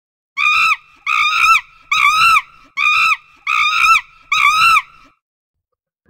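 A monkey calling: six short, high calls in an even series about 0.8 s apart, each rising and then falling in pitch.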